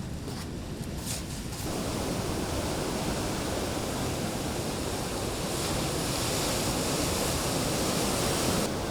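Ocean surf breaking and washing in: a steady rush of noise that swells up about one and a half seconds in.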